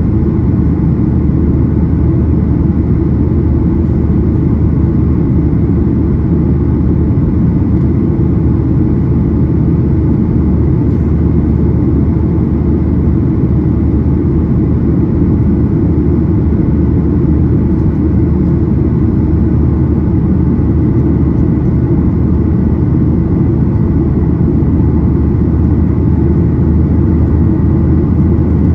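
Steady cabin roar of a Boeing 737-800's CFM56-7B jet engines and airflow, heard from inside the cabin, with a faint high steady whine above the low rumble.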